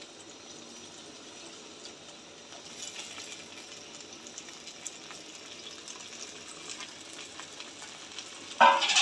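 Hot oil sizzling steadily at a low level in a clay pot as chopped tomatoes go into a frying tempering of onion, green chilli and curry leaves. A brief louder sound comes near the end.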